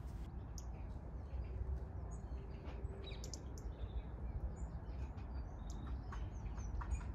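Small birds chirping outdoors in short, scattered high calls, over a steady low rumble.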